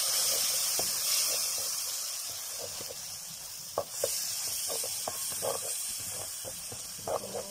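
Blended spice paste (shallots, garlic, dried chilli, galangal, ginger and curry powder) sizzling and hissing in hot oil in a pan after a splash of water. The hiss is loudest at first and dies down, then swells again about four seconds in, with a spatula scraping and tapping the pan now and then.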